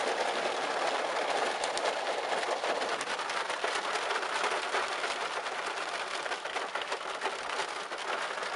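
Pea-size hail coming down hard: a dense, steady patter of countless small hailstone hits.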